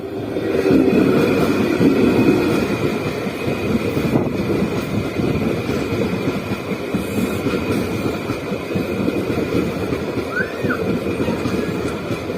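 Train passing close by on the track: a loud, steady rumble and clatter of wheels on rails that swells sharply within the first second, with a faint steady high ring above it.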